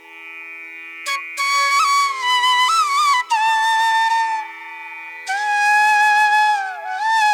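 Background music: a melody of long held notes that slide and bend in pitch, over a steady drone. The melody pauses briefly about a second in and again around three and five seconds.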